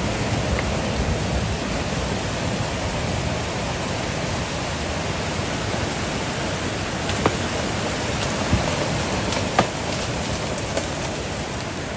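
Floodwater rushing past as a steady, even roar of water, with three brief knocks in the second half.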